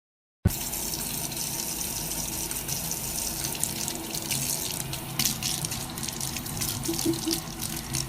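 Water running steadily, like a tap into a sink, starting suddenly about half a second in.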